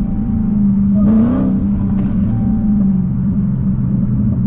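Dodge Challenger Hellcat's supercharged 6.2-litre V8 running at steady cruising revs, heard from inside the cabin, with a brief swell in the engine note about a second in.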